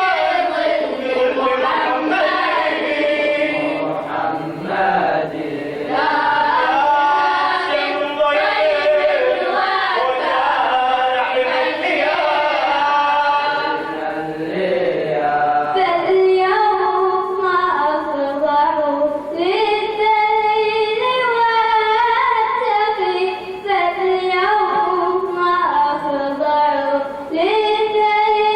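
A group of voices chanting a devotional nasheed elegy together in chorus, the melody rising and falling in long sung phrases.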